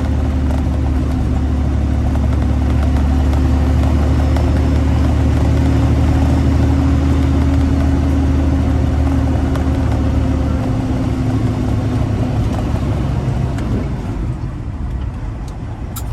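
Freightliner Classic XL semi truck's diesel engine running steadily under way with a deep drone. About ten seconds in, the deepest part of the drone drops away, and the sound eases a little toward the end.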